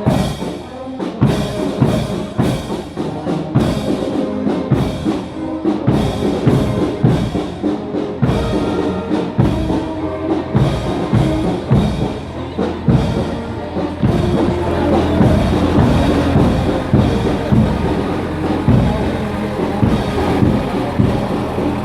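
Marching band playing in a procession: sustained brass-like notes over a steady bass-drum and snare beat at about two strokes a second.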